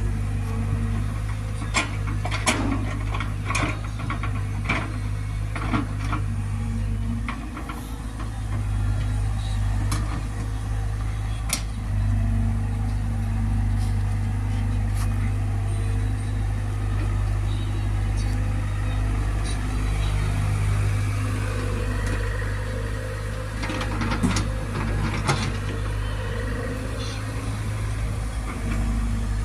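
Heavy diesel engine running steadily at a low, even pitch, with sharp knocks and clatters a couple of seconds in and again near the end.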